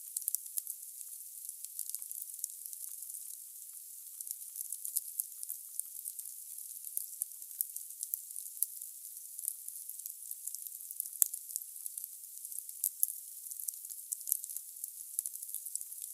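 Wood fire burning in a fireplace: a steady hiss with constant irregular crackling and popping of the logs, and a few sharper cracks.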